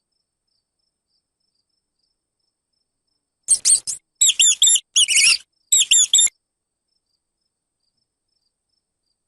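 Mouse squeaking: four quick runs of high, chirping squeaks over about three seconds, beginning a few seconds in.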